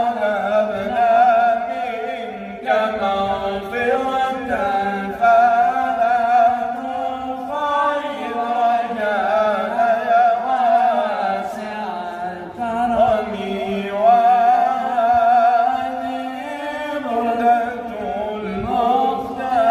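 A man's voice chanting Islamic devotional verse in a drawn-out, ornamented melody, holding long wavering notes with brief breaths between phrases.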